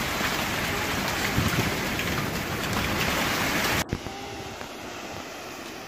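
Heavy rain pouring down in a dense, steady hiss, cut off abruptly a little under four seconds in. What follows is a much quieter outdoor background.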